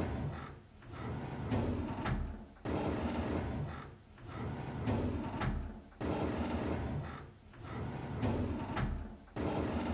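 A drawer sliding open again and again, each a scraping slide of a second or two, several in a row with short breaks between them.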